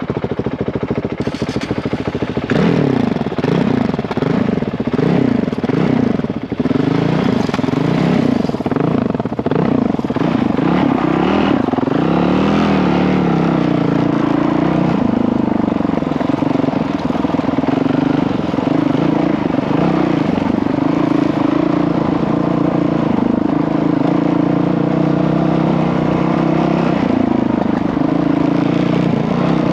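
Honda CRF dirt bike's single-cylinder four-stroke engine being ridden off-road, its pitch rising and falling again and again as the throttle is worked.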